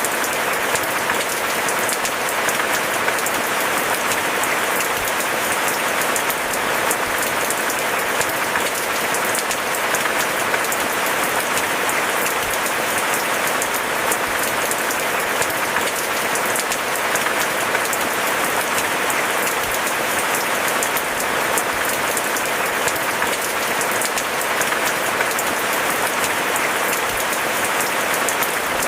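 Steady, dense rainfall pattering on surfaces, a constant crackly hiss with no lulls or thunder claps.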